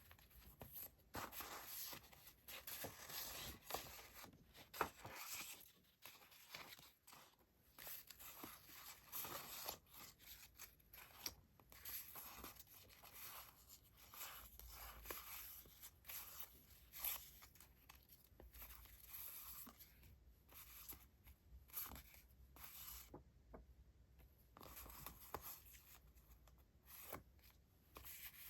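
Paper stationery and packaging handled close to the microphone: irregular rustling and scratchy papery strokes with occasional small clicks and crinkles.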